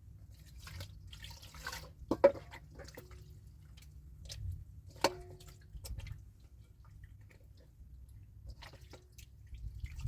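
Scattered light clicks and taps from things being handled. There is a short rustle about a second in, and two sharper knocks, about two and five seconds in, each ringing briefly.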